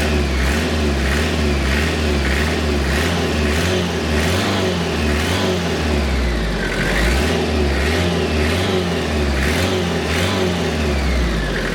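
Freshly overhauled Toyota 3L 2.8-litre four-cylinder diesel being blipped on the throttle, its revs rising and falling back about once a second, over and over.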